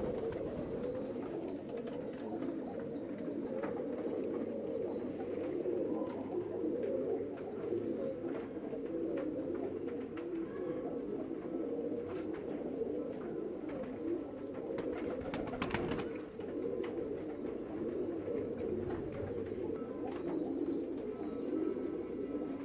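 A flock of pigeons cooing continuously, many calls overlapping. A few sharp clicks come about fifteen seconds in.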